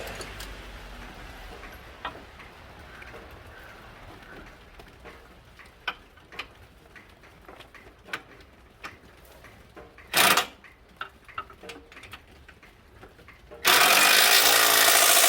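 Scattered clicks and knocks of hand tools and metal parts being handled during engine assembly. A short loud burst comes about ten seconds in, and a louder steady hissing-whirring noise starts near the end.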